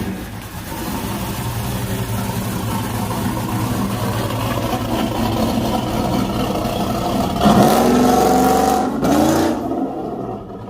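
Cammed LS V8 with a Corsa exhaust idling with a choppy lope. About three-quarters of the way through it is revved up and held briefly, blipped once more, then settles back down.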